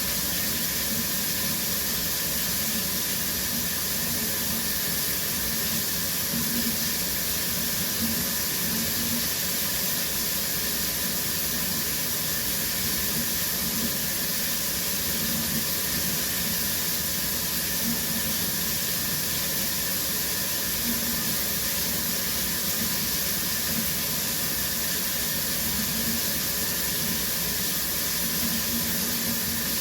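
Shower water running steadily, spray hissing down onto the shower floor.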